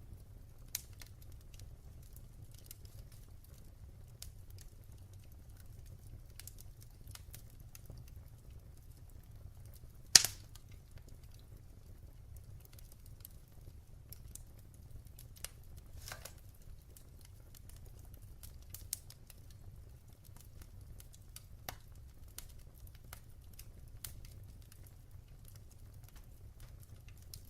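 Wood fire crackling in a fireplace: scattered sharp pops and ticks over a low steady rumble, with one loud pop about ten seconds in.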